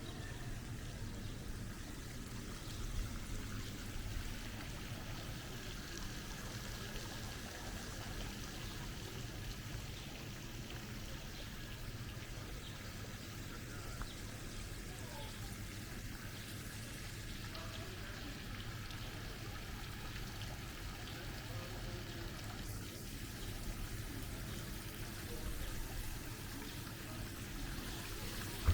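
Water trickling and running steadily, with faint voices in the background.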